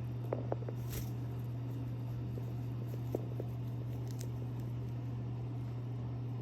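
Parrot eating, its beak making a few small scattered clicks and crunches on food, with a cluster in the first second. A steady low hum lies under it throughout.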